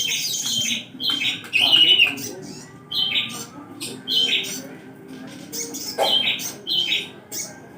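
Sogon bird calling: a string of short, sharp chirps repeated about once a second.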